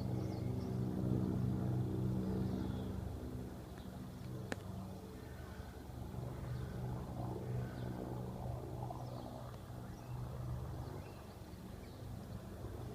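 Agusta-Bell AB 412 helicopter passing over, its rotor and turbine engines making a steady drone, loudest in the first few seconds and then settling a little lower. Faint bird chirps come through, and there is one sharp click about four and a half seconds in.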